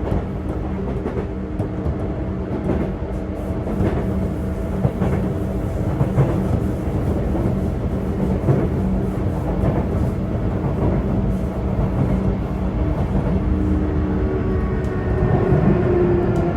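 Running sound inside a motor car of a Sotetsu 8000 series electric train (equipment-renewed set): steady traction motor and inverter hum over wheel rumble, with occasional rail-joint clacks. Near the end a new motor tone comes in and slowly falls in pitch.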